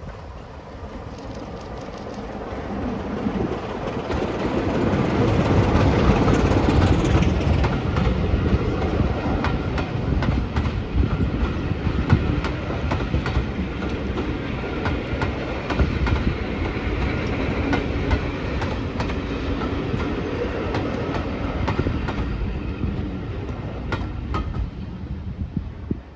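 Class 24 diesel locomotive's Sulzer six-cylinder engine working as the train passes, loudest about six seconds in. Then the carriages roll by with a steady clickety-clack of wheels over rail joints, which drops away near the end.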